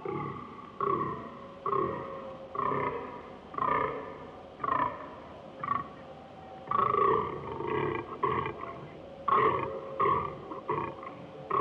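Fallow deer buck giving its rutting groan: a series of short, belching calls repeated about once a second.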